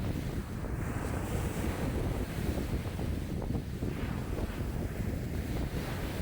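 Wind-driven lake waves lapping and washing, with strong wind buffeting the microphone in a low rumble.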